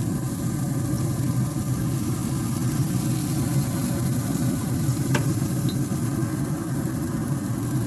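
Basted chicken pieces sizzling on a grill, over a steady low rumble, with a single click about five seconds in.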